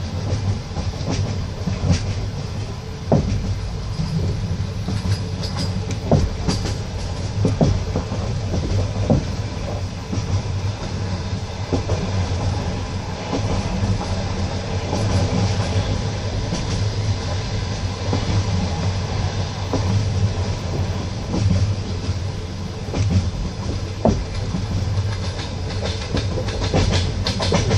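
Passenger train carriage running at speed: a steady rumble with the wheels knocking sharply over rail joints now and then.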